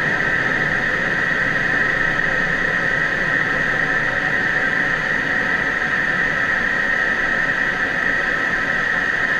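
Steady cockpit noise of an F-16D Fighting Falcon in flight: an even rushing hiss with a strong high-pitched band.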